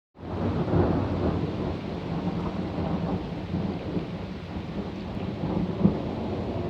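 Thunder rumbling continuously through a thunderstorm, with rain falling, and a brief louder snap just before the end.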